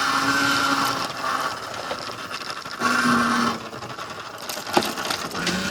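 Electric dirt bike's motor whining under throttle in two spurts, about a second in and again after three seconds, over steady rattling and tyre noise from riding rough trail ground, with a single sharp knock near the end.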